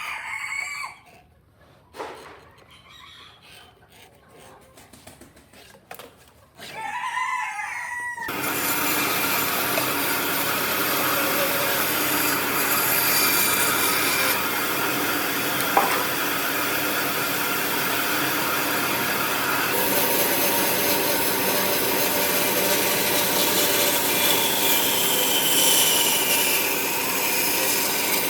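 A rooster crows in the first seconds. About eight seconds in, a power tool working wood starts and runs steadily without a break.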